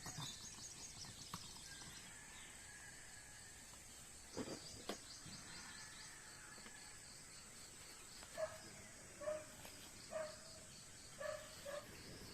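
Faint morning outdoor ambience: a steady high insect drone with bird chirps. Near the end comes a run of five short pitched calls, about one a second, from an animal, which could be a dog barking or a bird calling.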